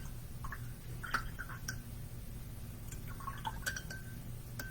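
A watercolour brush rinsed in a glass jar of water and tapped on its rim: a few small clinks and splashes, bunched about a second in and again near three and a half seconds.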